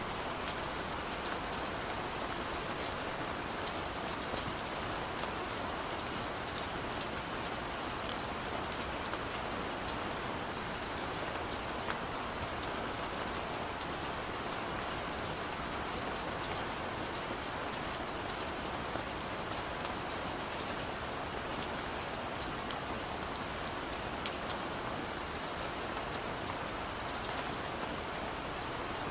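Steady gentle rain falling, an even hiss with a scatter of fine individual drop ticks.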